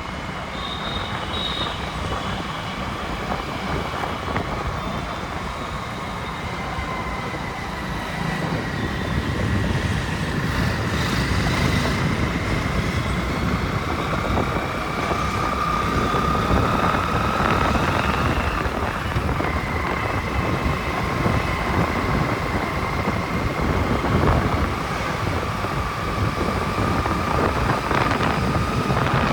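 Riding a bike through city traffic: continuous engine, road and wind rumble, with a steady whine that drifts slowly up and down in pitch as the speed changes.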